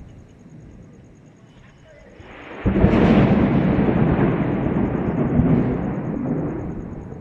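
Thunder: a low rumble builds about two seconds in, then breaks into a sudden loud crack and a long rolling rumble that slowly fades over the next four seconds.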